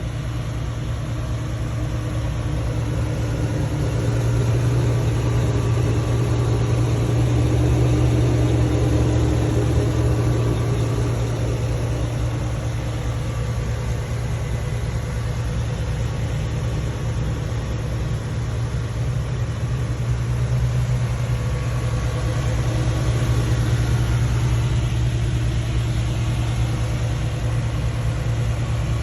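GM LS-series V8 swapped into a Jeep Wrangler LJ Rubicon, idling steadily with a low, even exhaust note.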